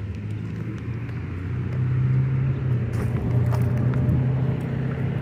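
Car engine running, heard from inside the car: a steady low hum that grows louder about two seconds in.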